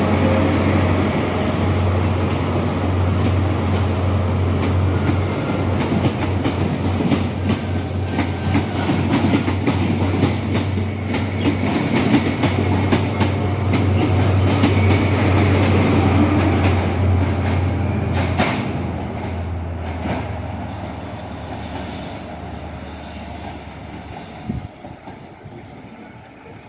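High Speed Train running, a steady low diesel drone from its Class 43 power cars with the wheels clicking over rail joints. The sound fades steadily over the last several seconds as the train moves away.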